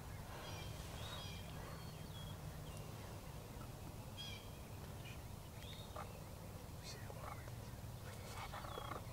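Faint bird calls in the woods: short high chirps and whistles from songbirds scattered throughout, with wild turkey calls among them.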